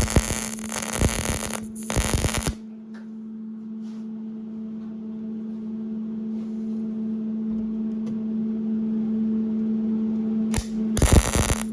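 MIG welding arc crackling for about two and a half seconds, then a pause filled by a steady hum, and crackling again from about ten and a half seconds in: short weld runs around a curved V-band flange.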